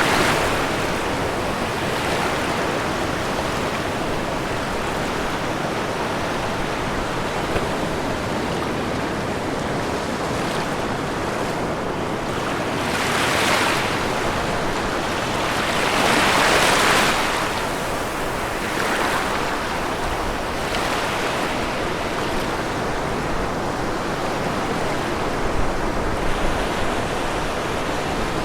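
Ocean waves breaking on a shore, a steady wash of surf with two louder waves swelling and falling back about halfway through.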